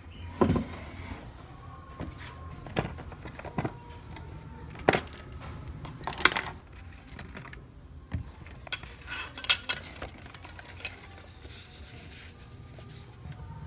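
Hard objects being handled, with scattered, irregular clinks and knocks over a low steady hum.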